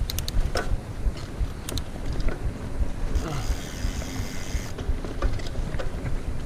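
Mountain bike rolling fast along a dirt trail: wind rumbling on the microphone and tyres on the ground, with scattered ticks and rattles from the bike and a hiss lasting over a second about three seconds in.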